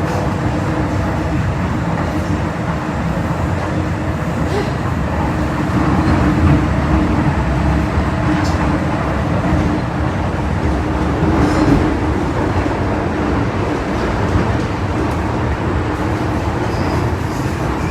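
MTR M-Train electric metro train running on the track, a steady rumble of wheels on rail with a steady hum running under it.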